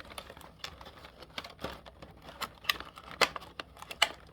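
Irregular light clicks and taps of small hard objects being handled and knocked together.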